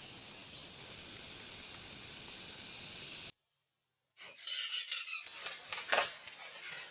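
A steady forest background hiss with a faint, high, even insect-like tone. About three seconds in, it cuts off to dead silence for nearly a second. Then uneven rustling and a few sharp clicks follow.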